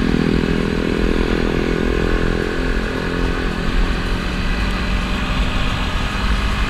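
Sport motorcycle's engine running under way with a steady rushing of wind; the engine note is strongest early, then fades and drops in pitch toward the end as the rider eases off.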